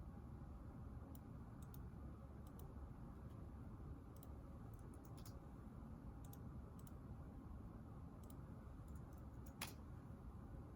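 Quiet room tone with faint, irregular light clicks scattered throughout, and one sharper click about nine and a half seconds in.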